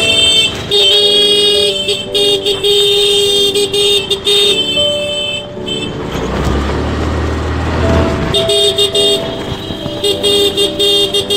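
Vehicle horns honking over and over in road traffic: several horns of different pitch, in short and longer blasts. About six seconds in the honking stops for two seconds under a low vehicle rumble, then starts again.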